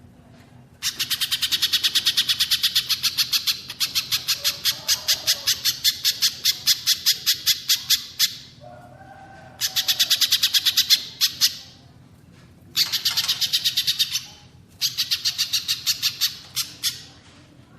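Recorded songbird calls from a bird-training track of pijantung pisang (spiderhunter) and cililin: rapid trains of sharp, high chips, about eight a second, in several bouts of a few seconds each with short pauses between. A faint low hum runs underneath.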